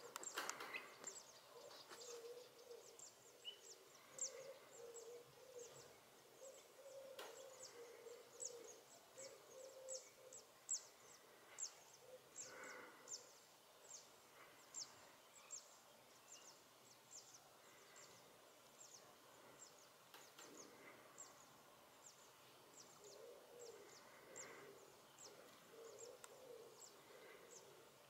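Faint outdoor ambience with a distant small bird repeating short, high, falling call notes about twice a second, and lower hooting calls that come and go.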